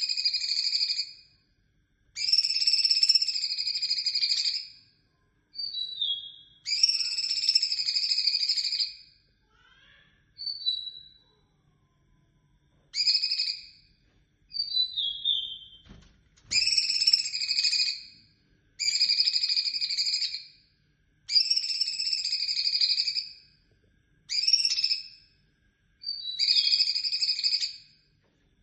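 Cucak cungkok songbird calling: about a dozen drawn-out high-pitched call phrases, mostly one to two seconds long, separated by short pauses, with a few brief falling whistles between them.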